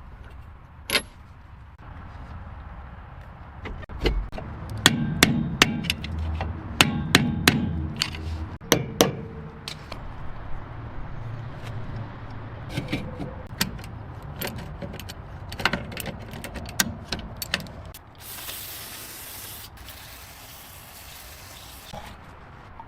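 Repair-work noises: a run of sharp knocks and clicks, thickest in the first half, then a steady hiss lasting about four seconds near the end.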